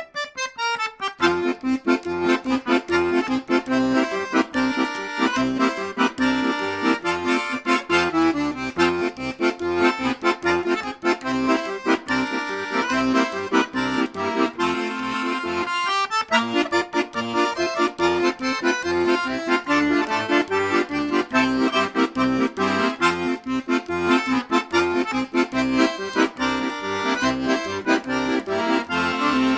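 Accordion playing a tune over a steady, rhythmic bass accompaniment, with a brief break in the phrase about halfway through.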